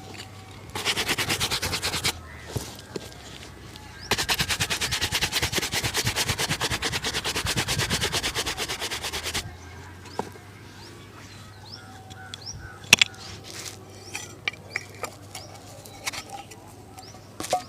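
Fast, even back-and-forth rubbing strokes on a shoe during shoe shining: a short run, then a longer one of about five seconds. After that, birds call in the background and there are a few sharp taps, the loudest about two-thirds of the way through.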